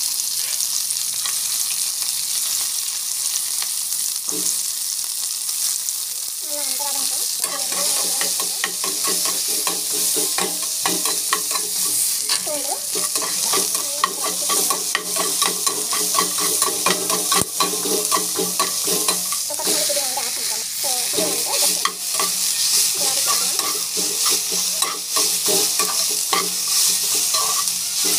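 Small onions and dried red chillies sizzling in hot oil in a kadai, with a steady hiss. From about seven seconds in, a spatula stirs and scrapes against the pan in quick, repeated strokes.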